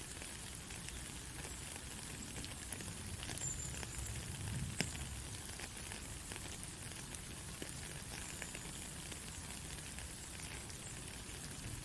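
Steady rain falling, a continuous hiss with scattered individual drops ticking, one sharper drop hit about five seconds in.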